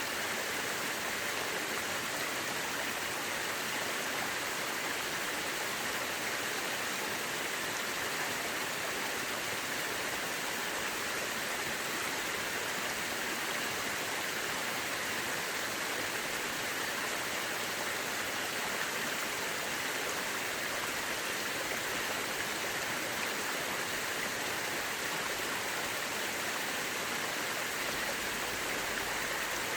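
Mountain river rushing over rocks: a steady, even rush of water with no change in level.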